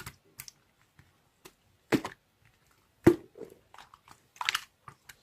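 Slime being squeezed and poked, giving a few separate sharp pops and wet crackles, with a quick run of crackles near the end.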